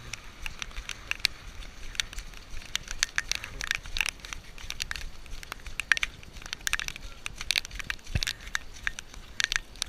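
Irregular crackling and tapping, several sharp clicks a second over a faint hiss, as a camera phone is carried by someone running in the rain.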